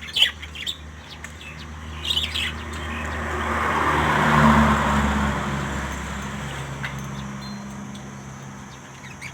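Parrots giving short chirps and squawks, a few calls near the start, around two seconds in and again near seven seconds. Over them a passing vehicle rises and fades, loudest about halfway through.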